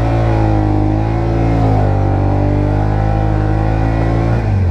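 Side-by-side UTV engine running steadily under throttle while driving, its pitch dropping near the end as the throttle eases off.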